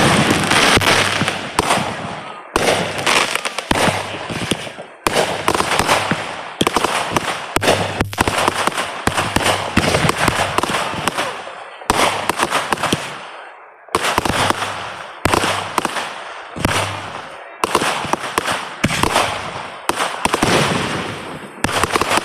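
A fireworks display going off in quick succession: about twenty sharp bangs, each trailing off in a fading tail before the next one hits.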